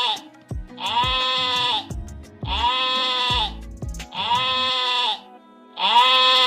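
A short animal call repeated four times, each about a second long and evenly spaced, over background music with a steady beat.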